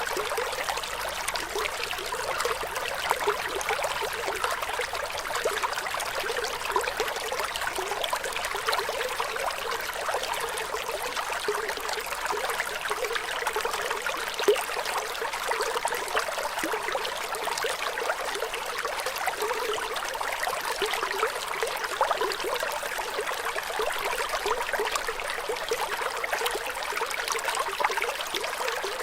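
Flowing water trickling and bubbling steadily, bright with little low rumble, with one brief louder splash or pop about halfway through.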